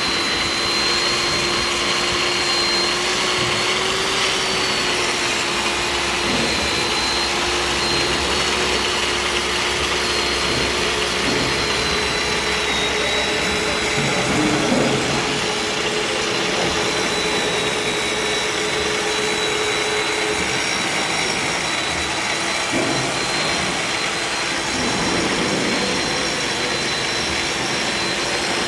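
Lathe-bed grinding machine running steadily, its grinding wheel working along the bed slideways: a continuous whir with a steady high-pitched tone over it.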